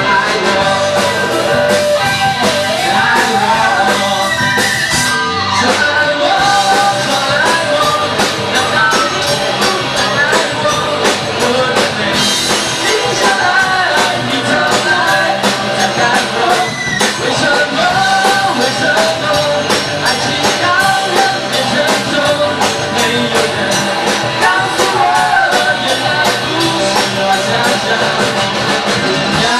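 A rock band playing a song live, with guitar and drums under a wavering melodic lead line, at a steady loud level.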